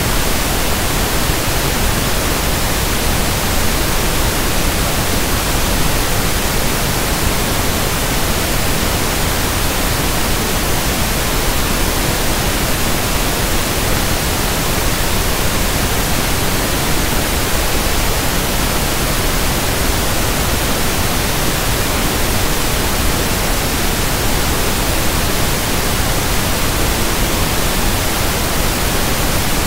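Steady pink noise: an even, unchanging hiss with no rhythm or tones.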